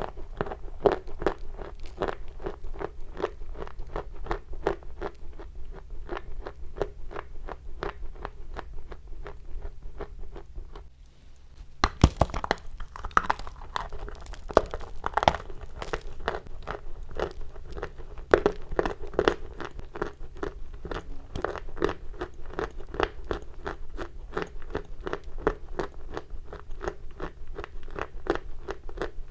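Chalk being bitten and chewed close to the microphone: a dense run of crisp, gritty crunches that eases off briefly about eleven seconds in, then resumes with a few sharp, loud bites.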